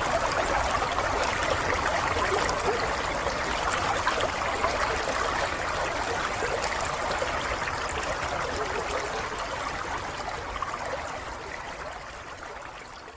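A stream of running water trickling and babbling steadily, fading out over the last few seconds.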